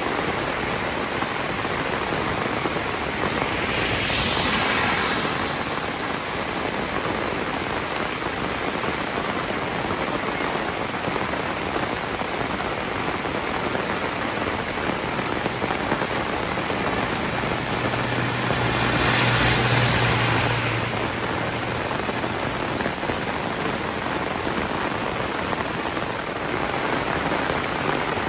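Heavy rain falling steadily, swelling louder twice, about four seconds in and again about twenty seconds in. A low hum sits under the second swell.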